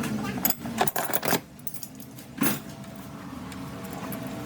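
Metal tools and engine parts clinking and knocking against each other, about five sharp clinks in the first couple of seconds.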